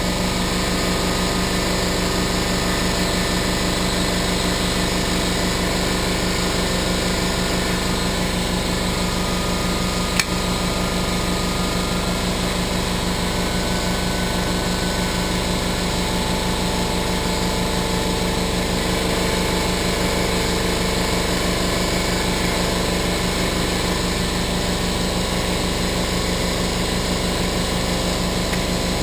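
Air compressor running steadily, refilling its tank after the shop air ran low, with one sharp click about ten seconds in.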